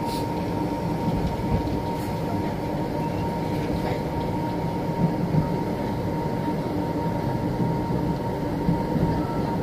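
Sleeper train running along the track, heard from inside the carriage: a steady rumble of wheels and car with a constant thin high whine over it.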